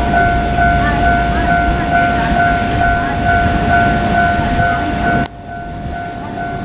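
Level crossing warning bell ringing steadily over the rumble of a JR Kyushu KiHa 200 diesel railcar passing. The train noise cuts off abruptly about five seconds in, and the crossing bell keeps ringing.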